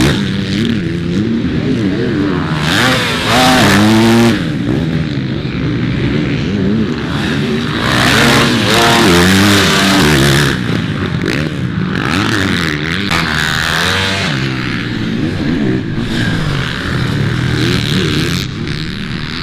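Several motocross dirt bike engines racing, revving up and down as the riders work through the gears, with the sound swelling as bikes pass close about three seconds in and again about eight seconds in.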